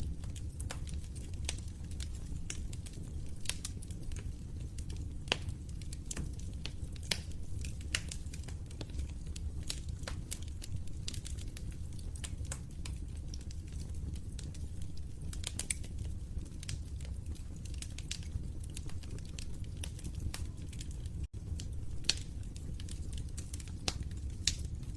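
Wood fire crackling: frequent irregular sharp pops and snaps over a steady low rumble of burning. The sound cuts out for an instant about three-quarters of the way through.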